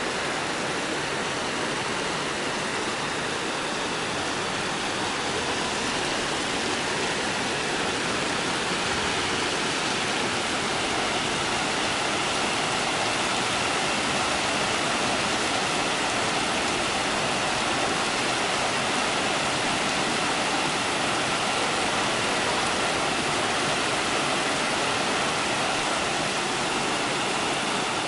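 Heavy storm rain falling steadily on city roofs and streets: a dense, even hiss with no break.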